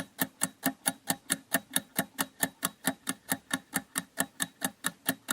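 Countdown timer sound effect: steady clock-like ticking, about five ticks a second.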